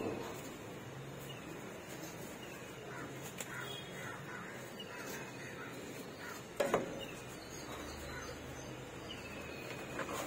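Small birds chirping in short, quick falling notes over a steady background hum, with one sharp knock about six and a half seconds in.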